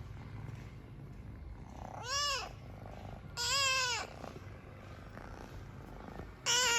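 Kitten purring steadily, broken by three loud meows, each rising then falling in pitch: about two seconds in, about three and a half seconds in, and near the end.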